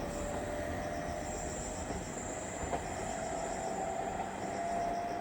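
Electric train running at the station with a steady rumble and a thin whine that rises slightly in pitch.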